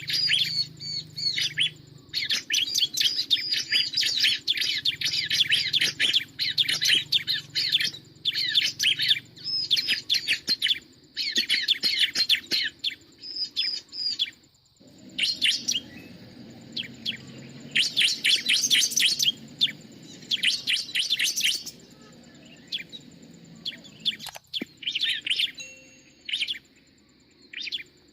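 Bar-winged prinia (ciblek) calling: rapid strings of high, sharp chirps in bursts, broken by short pauses of a second or two.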